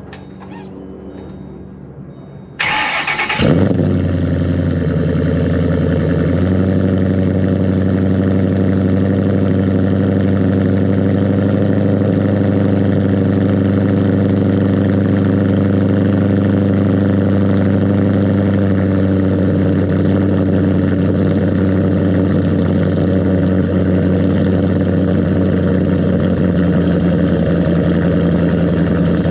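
Cold start of a 2008 Mustang Bullitt V8 with Ford Racing cams, Kooks long-tube headers, X-pipe and Magnaflow mufflers: it fires about two and a half seconds in with a brief rev flare, then settles into a steady, loud cold idle with a choppy cam lope, dropping a little in pitch about six seconds in.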